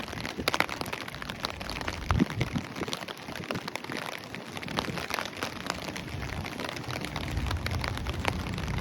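Steady rain, with many individual drops striking close by as sharp ticks. A low rumble comes in near the end.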